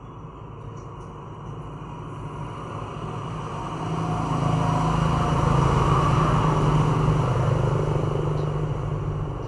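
A motor vehicle passing by: engine noise that swells to a peak about six seconds in, then fades away.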